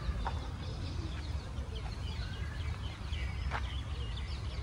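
Several birds chirping in short, quick calls over a steady low rumble.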